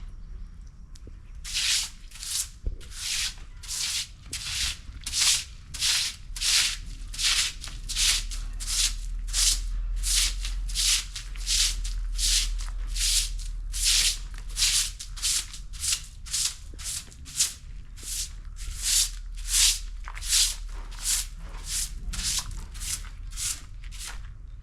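Broom sweeping a surface in steady, even strokes, a short scratchy swish about one and a half to two times a second, starting about a second and a half in.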